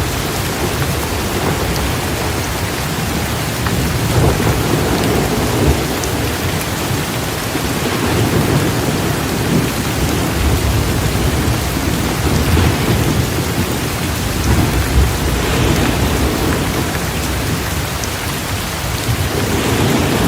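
Heavy, steady rain pouring down in a thunderstorm, with low rolling thunder rumbling and swelling repeatedly underneath.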